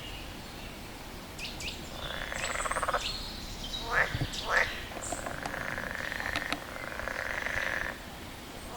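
A frog calling: a pulsed, rattling croak about two seconds in, two short sharp calls near four seconds, then a longer pulsed call lasting about three seconds.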